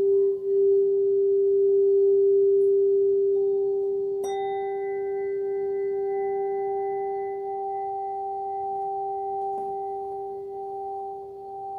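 Singing bowl sounding a long, steady low tone. About four seconds in, a sharp strike adds higher ringing tones that hang over it and slowly fade.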